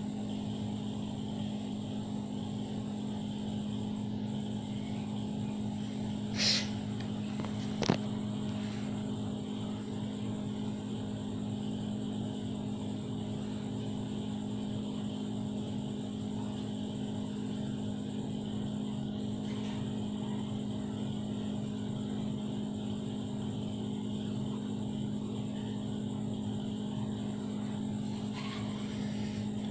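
A steady low hum, with a brief burst of noise about six and a half seconds in and a sharp click about eight seconds in.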